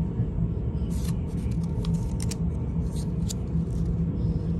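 Steady low rumble of a moving train, heard from inside the passenger car, with a few light clicks and rustles from paper tickets being handled.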